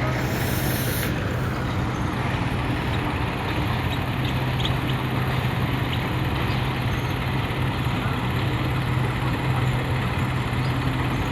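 Diesel tractor engine idling steadily, a constant low drone with no change in speed, with a brief hiss in the first second.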